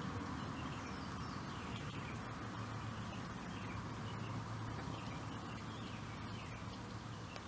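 Outdoor ambience of faint bird calls, short falling notes repeated every second or so, over a steady low hum.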